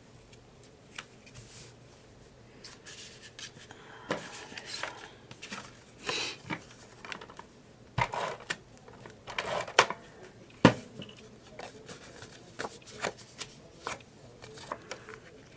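Sheets of paper and cardstock being handled: irregular rustling and sliding, with scattered light taps on the table and a sharper knock about ten seconds in.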